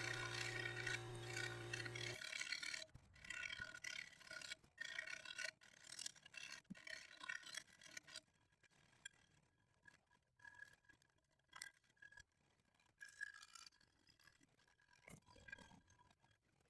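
Faint, irregular scraping and rubbing as old clear coat is worked off a factory aluminum truck wheel. The strokes come thick at first and thin out to sparse, fainter scrapes after about eight seconds. A steady low hum stops about two seconds in.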